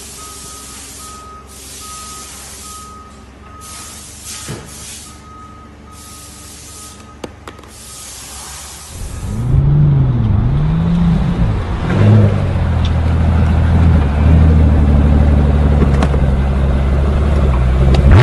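A heavy vehicle's reversing alarm beeping steadily, with bursts of air hiss and a low engine running underneath. About nine seconds in the engine is revved hard, its pitch rising and falling several times, and keeps running loudly.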